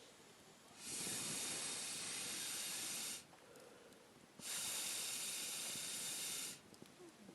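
Two long hissing blasts of air, each about two seconds, starting and stopping sharply, with a pause of a little over a second between them.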